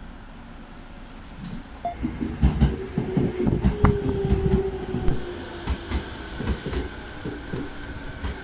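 Train wheels clattering over rail joints: a fast run of knocks sets in about two seconds in over a steady rumble, with a whine that sinks slightly in pitch.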